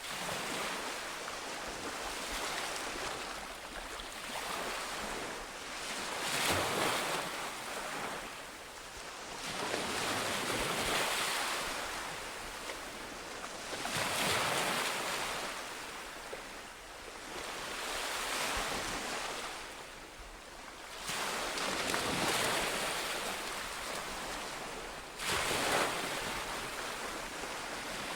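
Ocean surf: a steady wash of waves breaking on a shore, swelling and fading every three to four seconds, with one sharper crash near the end.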